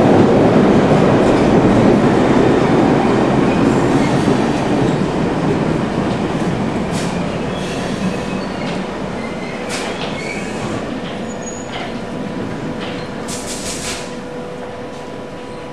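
London Underground A60 stock train pulling away, its rumble loud at first and fading steadily as it draws off. Several short high wheel screeches come in the second half, the last and longest near the end.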